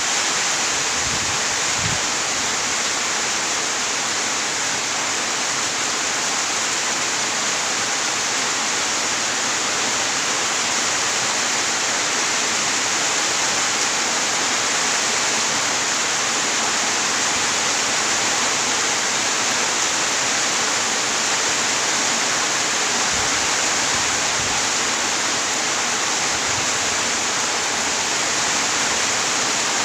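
Steady heavy rain, an even, unbroken rush.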